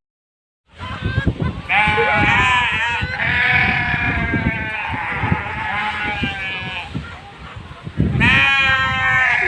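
Sheep bleating: a run of long, quavering bleats, then a pause and another bleat near the end.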